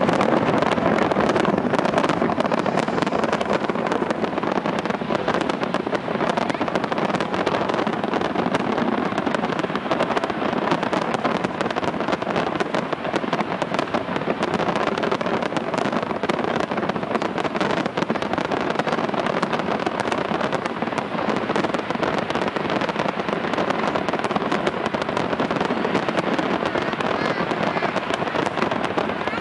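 Fireworks display: a dense, continuous barrage of crackling bursts and bangs, packed so close together that they merge into one steady din with no pauses.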